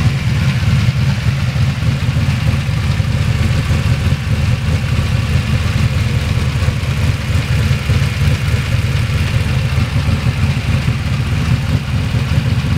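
Chevrolet 408 stroker small-block V8 (a bored-out 400) idling steadily, its low exhaust note coming through straight pipes with small cherry bomb mufflers.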